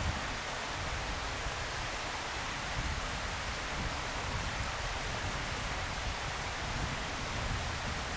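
Steady outdoor wind noise: an even hiss with irregular low buffeting of wind on the microphone.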